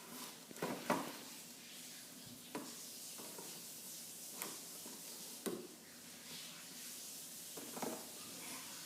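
Small objects being handled: a handful of light, irregular clicks and knocks, about six in all, over a faint steady hiss.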